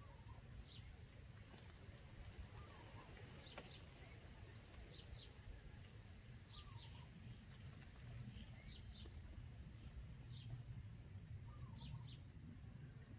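Faint, short, high quail calls, often in quick pairs or threes, repeating every second or two over a steady low rumble: a decoy quail calling to lure wild quail.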